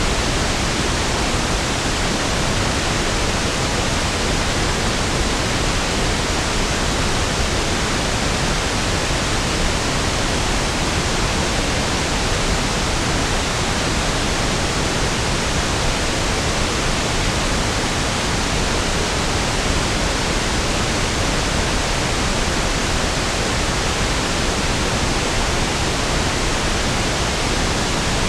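Steady pink noise (1/f noise): an even, unchanging hiss spread evenly from the lows to the highs, with no events or changes.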